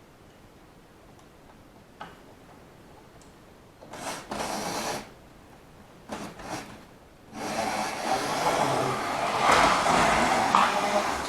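Model train running on the layout track, a whirring of motor and wheels. It comes in two short bursts, then a longer stretch that grows louder as the train runs close by and fades near the end.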